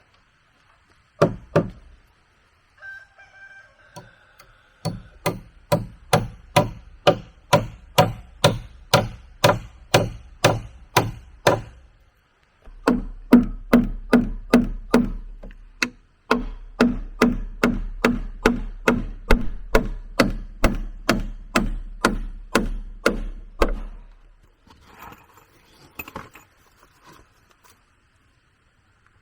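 Repeated sharp blows of a tool on wood, evenly paced at about two to three strikes a second, in two long runs with a short pause between them.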